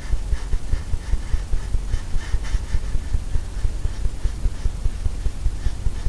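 Paintbrush scrubbing and tapping paint onto a canvas on an easel, a quick, even rhythm of dull low thumps, about four a second, with a faint bristle scratch.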